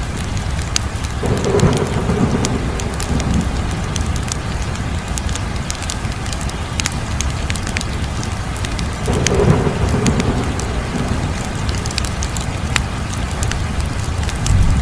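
Wood fire crackling, with frequent sharp pops and snaps over a steady low rumbling roar that swells twice, about a second and a half in and again about nine and a half seconds in.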